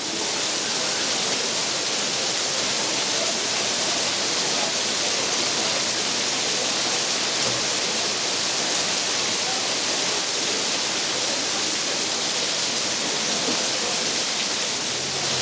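Torrential rain pouring down with a steady, loud hiss.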